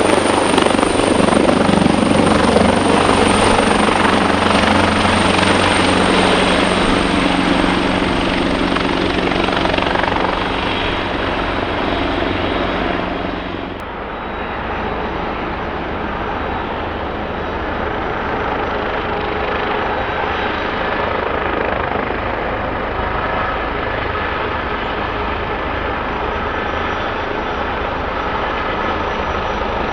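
Helicopter running close by, with its turbine whine and rotor noise; the high whine slowly falls in pitch. About fourteen seconds in, the sound cuts abruptly to a quieter, steadier mechanical running noise.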